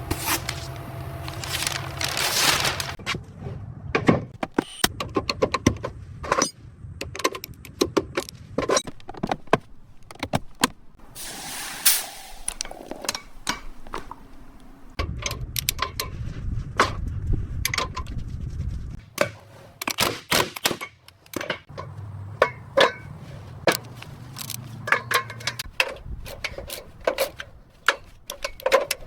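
Metal tools clinking, knocking and scraping on car parts, with two short hisses about eleven seconds apart.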